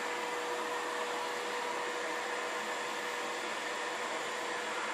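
Vacuum cleaner running steadily, a constant whooshing hum with a faint steady tone that fades out after about two seconds.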